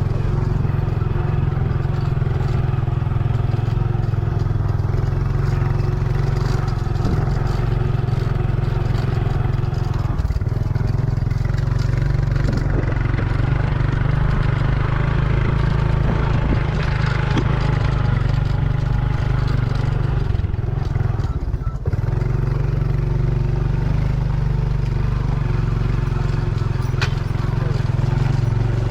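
Motorcycle engine running steadily while riding, a continuous low drone that dips briefly about two-thirds of the way through.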